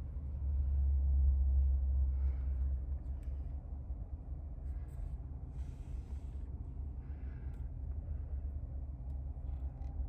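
Low, steady rumble of a 2024 Cadillac Escalade driving, heard from inside its cabin. It swells louder for the first couple of seconds, then settles, with a few faint rustles and clicks.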